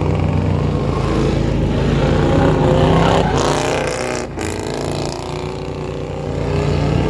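Car engine revving, its pitch rising and falling a few seconds in, over a steady low engine drone.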